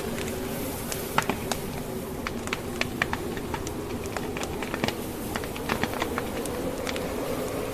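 Logs burning in a fireplace, crackling with many irregular sharp pops, over a steady low drone of wind from a snowstorm.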